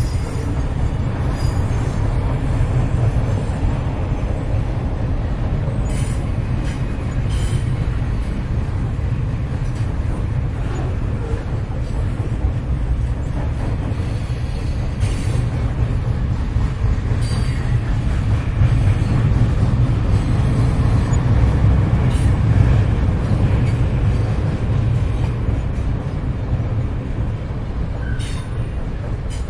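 Train carriage interior while moving: a steady low rumble of the running train, with a few short sharp clicks and knocks scattered through it.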